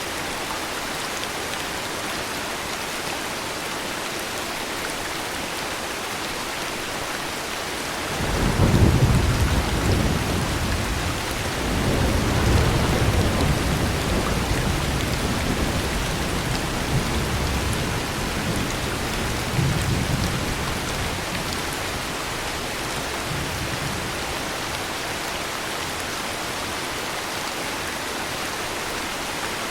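Steady heavy rain with a long roll of thunder: a deep rumble comes in sharply about eight seconds in, swells a second time a few seconds later, and slowly dies away over about ten seconds.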